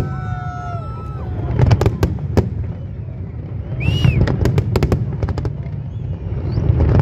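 Fireworks display: a continuous low rumble of aerial shell bursts with many sharp bangs and crackles, and a brief whistle about four seconds in.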